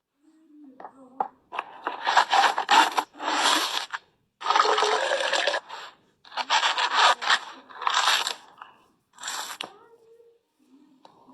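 A series of rough scraping strokes, each lasting from about half a second to a second and a half, with short pauses between them.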